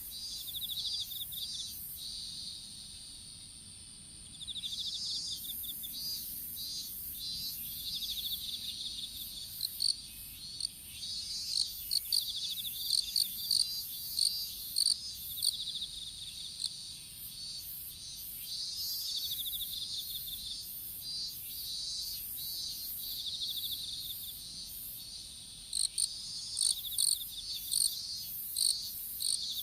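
Several field insects calling together: a steady high-pitched whine under a chorus of rapid, repeated chirping trills. The chirping drops out for a couple of seconds near the start, then resumes, with sharper, louder chirps near the end.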